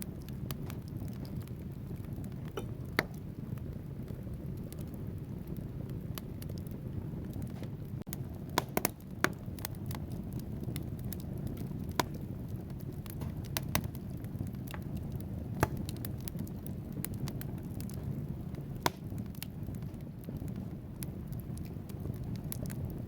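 Wood fire burning in a fireplace: a steady low rumble of flames with scattered sharp crackles and pops from the burning logs, a handful of them standing out as loud single snaps.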